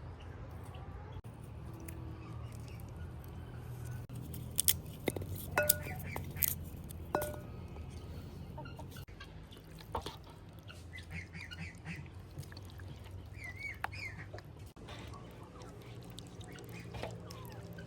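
Outdoor ambience with a steady low hum. A cluster of sharp clinks rings briefly about a third of the way in, and short bird chirps follow in the second half.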